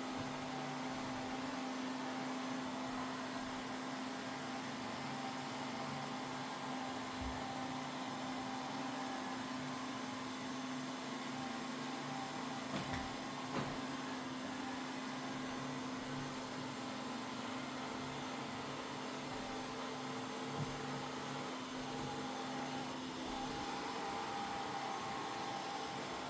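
Mova Z60 robot vacuum running with its suction ramped up: a steady hum with a constant whine, and a few faint clicks about halfway through.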